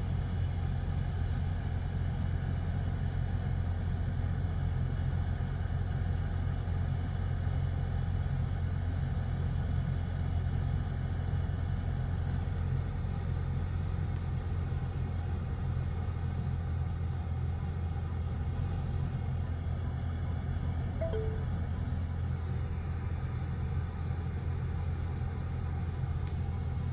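BMW engine running at low speed, heard inside the cabin as a steady low hum during an automatic self-parking manoeuvre. A short two-note chime sounds late on.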